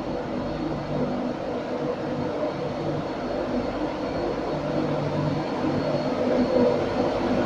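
LNER Class 91 electric locomotive pulling away, a steady mechanical hum with several held tones over a rushing noise, growing gradually louder.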